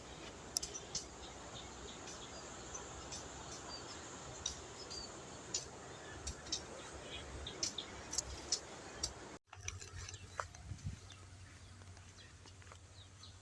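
Outdoor ambience: small birds chirping in short, scattered calls over a steady background hiss. About nine seconds in, the sound drops out briefly, and after that the background is quieter with a low hum.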